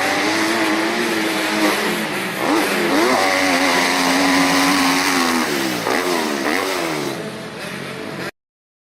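Motocross bike engine running hard, its pitch held high, then dropping and climbing again several times as the throttle is cut and reopened. The sound cuts off suddenly near the end.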